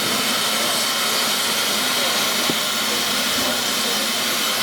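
Steady, loud hiss of steam escaping from the steam locomotive LNER A1 No 60163 Tornado.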